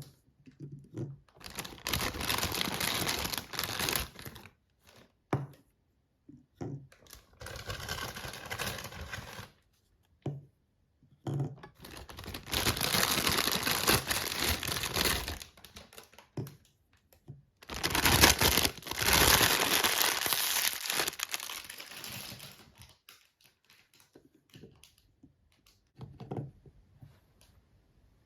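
Toy packaging crinkled and torn open by hand in four long stretches, with small clicks and taps between them. The last few seconds hold only faint taps.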